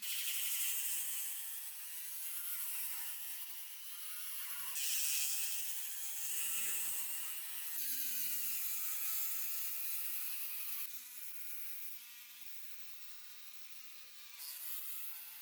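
A small high-speed electric motor whines, with a hiss of work on the part. Its pitch wobbles and shifts under changing load, and the sound changes abruptly several times between takes.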